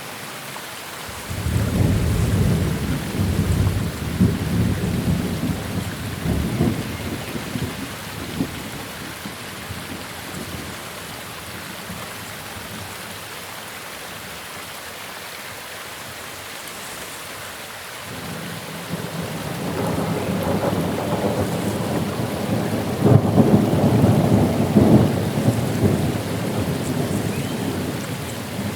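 Steady rain hiss with two long rolls of thunder: the first breaks about a second in and rumbles away over several seconds, the second builds from the middle and is loudest, with sharp crackles, near the end.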